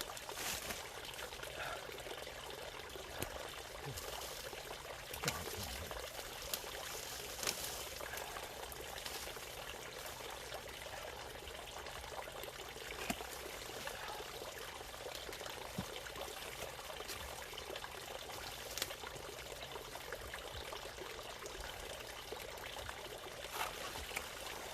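Water bubbling and trickling steadily, with a few faint clicks here and there.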